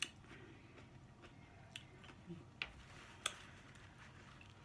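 Near-quiet eating pause with a few faint, sharp mouth clicks from chewing: about five over four seconds, the sharpest right at the start and about three seconds in.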